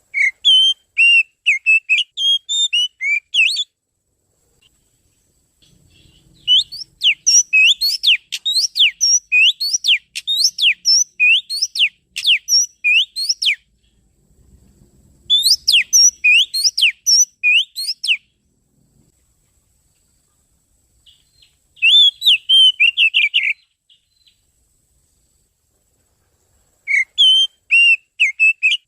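Oriental magpie-robin song, played as a lure: rapid, high whistled notes in loud phrases of a few seconds, broken by pauses of a second or more.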